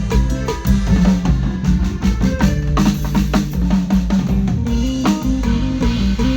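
A band playing: a drum kit with kick and snare strokes over held low notes.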